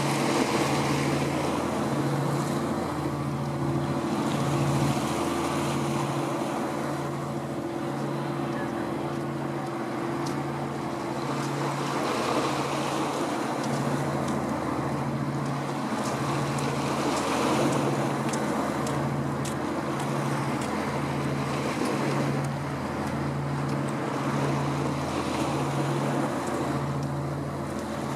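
A passing vessel's engine running steadily: a low drone that throbs about once a second, with a faint steady higher tone. Wind and water noise run underneath.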